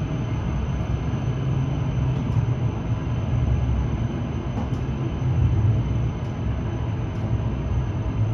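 Steady low rumble of an H5 series Shinkansen train heard from inside the passenger car as it runs slowly along a station platform, arriving at the station.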